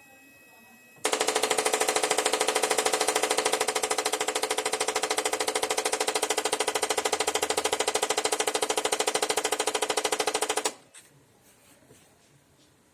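Brother 220 printer making a loud, rapid, even mechanical rattle for about ten seconds, starting about a second in and stopping abruptly: the abnormal noise fault the printer has developed.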